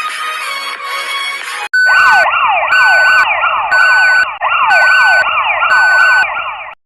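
Electronic siren sound effect: a fast wailing yelp of falling sweeps, about three a second, layered with a beeping tone that pulses on and off about once a second, loud, cutting off sharply near the end. Electronic music plays for the first couple of seconds before it.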